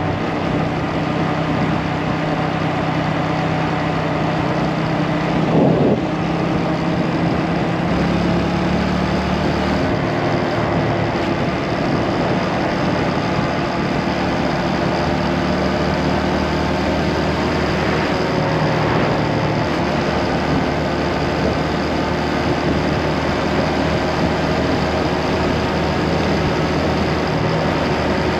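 Motorcycle engine running while riding, under a steady rush of wind and road noise; the engine note steps up or down a few times.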